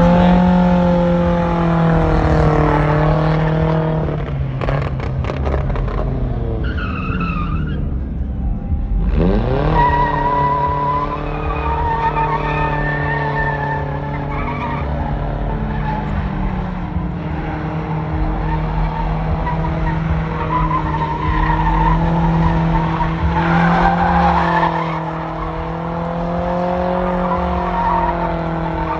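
Truck engine held at high revs during a burnout, its tires spinning and squealing on the pavement. The revs fall off briefly and climb again about nine seconds in, then hold steady.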